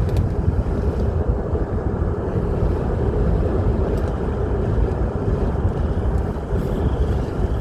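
Steady road and engine rumble of a moving car heard from inside the cabin.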